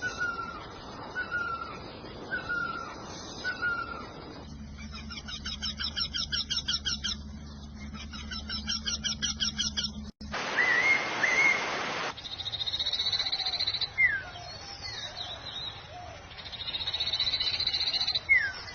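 A series of different birds' calls and songs, changing abruptly every few seconds. Short whistled notes come about once a second. Then rapid pulsed trills play over a steady low hum, and near the end a high trilled song mixes with sharp down-slurred calls.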